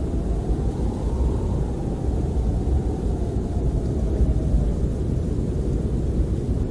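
Snowstorm wind blowing against a camper: a steady low rumble with a faint whistle that rises about a second in and slowly falls away.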